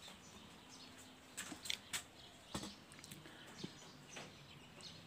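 Faint outdoor background with a few scattered bird chirps and light clicks.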